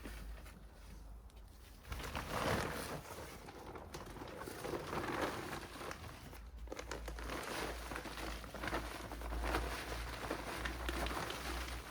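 Crinkling and rustling of a garden bag being handled and shifted, with irregular scraping and small clicks; it grows louder about two seconds in.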